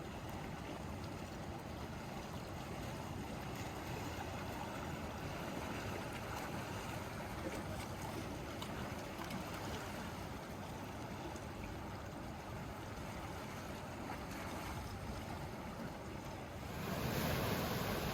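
Sea waves washing ashore in a steady wash of surf, which grows suddenly louder near the end.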